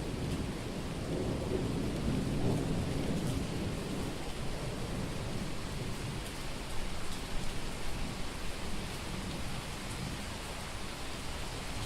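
Heavy rain falling steadily during a thunderstorm, with the low rumble of thunder dying away over the first few seconds and scattered drips ticking through the rain.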